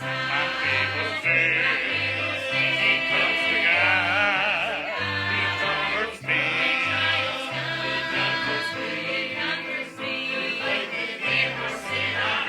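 Church choir singing with instrumental accompaniment, over a bass line that steps from note to note about every half second.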